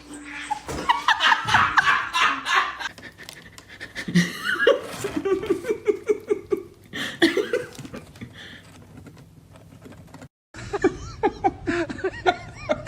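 Human laughter in repeated bursts of giggling and chuckling, with a brief drop-out about ten seconds in before the laughing goes on.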